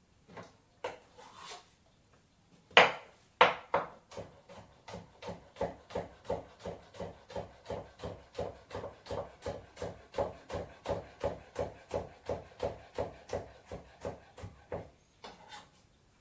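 Knife chopping vegetables on a wooden cutting board: a few single knocks, then steady chopping at about three strokes a second for around twelve seconds, stopping shortly before the end.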